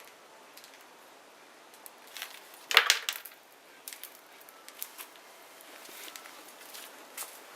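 Small wood bonfire crackling, with scattered sharp pops and a louder burst of crackling about three seconds in.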